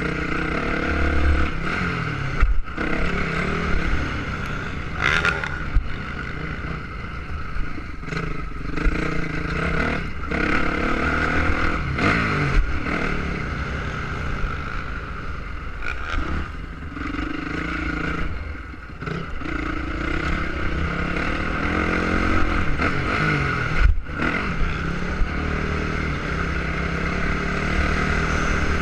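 Motocross motorcycle engine revving up and down over and over as the bike is ridden, with a low rumble and occasional sharp knocks throughout.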